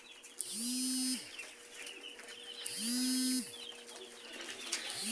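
A flock of three-day-old broiler chicks peeping continuously, many short high calls overlapping. A louder, unidentified low tone, rising at its start and dropping at its end, repeats about every two seconds over the peeping, three times.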